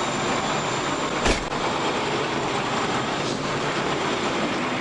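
Steady vehicle noise, with one sharp knock about a second in.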